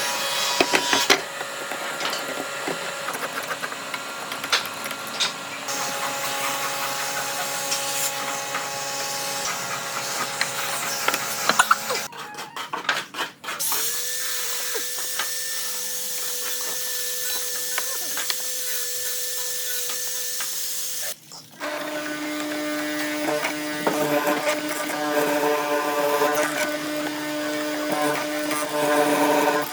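Electric power tools running in three stretches with abrupt changes between them. One steady whine starts about halfway through with a short rise in pitch; a lower steady whine follows from about two-thirds of the way in.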